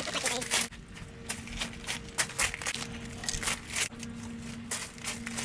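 Irregular rustling and clicking of rubbish being handled and cleared out of a car's interior.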